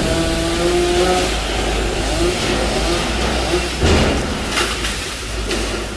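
Chainsaw engine running at a steady high pitch for about the first second, then a rougher, noisier stretch as it works through fig branches, with a heavy thump about four seconds in.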